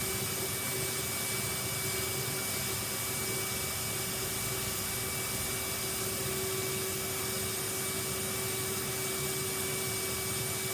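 Vacuum cleaner running steadily, with a constant hum and a high whine.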